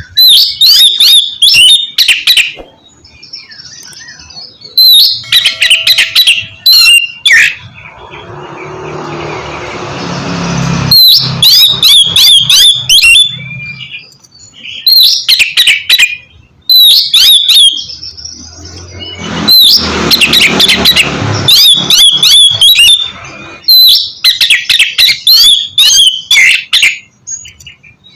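Oriental magpie-robin (kacer) singing in loud bursts of rapid whistled phrases with short pauses between them. Twice, about a third and two-thirds of the way through, a rough hissing sound rises and runs under the song.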